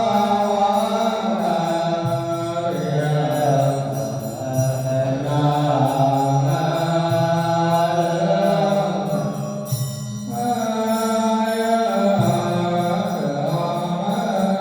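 Vietnamese Buddhist chanting: voices intoning a sutra in long held notes that step from pitch to pitch, with a brief breath break about ten seconds in.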